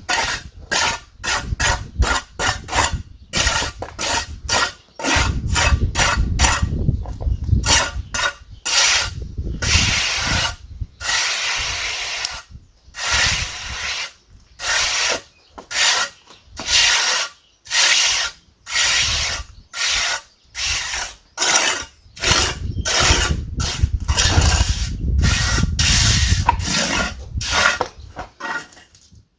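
A hand tool rasping on material in repeated back-and-forth strokes, about one to two a second, with short breaks in the rhythm and a low rumble of handling under some passages.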